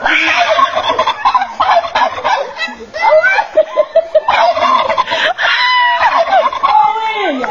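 Loud bird calls in quick repeated bursts, with gliding cries near the end.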